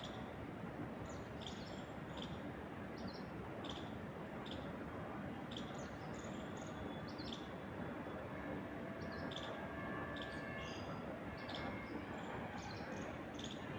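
Small birds chirping, short high chirps coming about once a second, over a steady rush of wind through trees.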